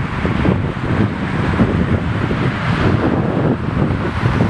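Wind buffeting the microphone, a steady low rumbling noise that rises and falls unevenly.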